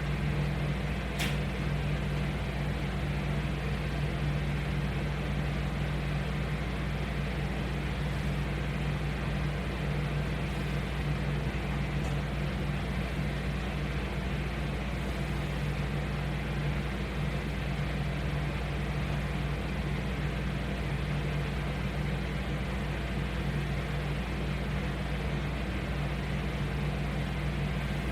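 Steady low machine hum with no change in level, and one brief click about a second in.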